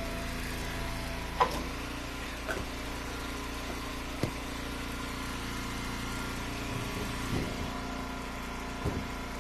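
Wood splitter's engine running steadily, with about five short wooden knocks scattered through as ash rounds and split pieces are handled and dropped.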